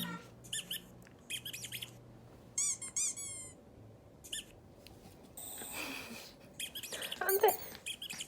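High-pitched squeaking and chirping in short bursts, with a quick falling run of chirps about three seconds in and a louder squeal near the end.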